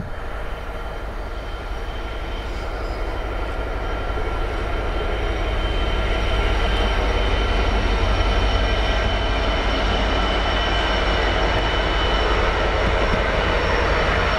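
A train passing on the line. The rumble grows louder over the first several seconds and then holds steady, with a few steady high whining tones running through it.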